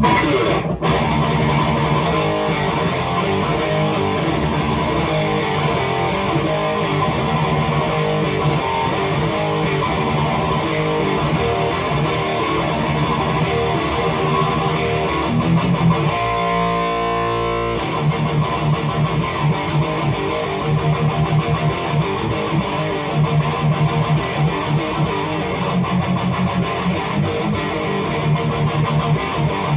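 High-gain electric guitar riffing through a REVV G3 distortion pedal on its red, most aggressive setting, played through a tube amp and speaker cabinet. About sixteen seconds in, a chord is held and rings for under two seconds, then fast, tight chugging begins.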